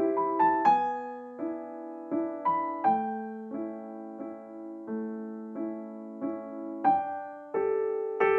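Soft background piano music: a gentle, slow melody of single notes and chords, each note dying away.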